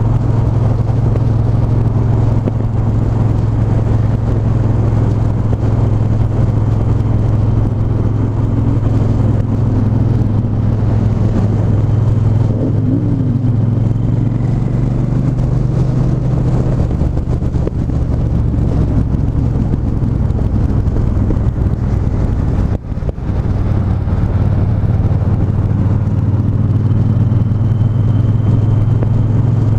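Triumph 1200 cc parallel-twin motorcycle engine running at a fairly steady pace during a ride, with a brief dip in sound about 23 seconds in.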